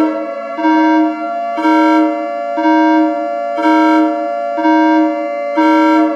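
Civil defense siren holding a steady wail, with a pulsing electronic alarm tone beeping about once a second over it: a nuclear-attack warning signal in a mock emergency alert broadcast.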